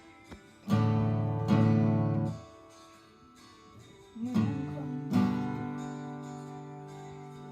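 Guitar strummed: two chords about a second in, stopped short, then another chord a few seconds later left to ring and slowly fade.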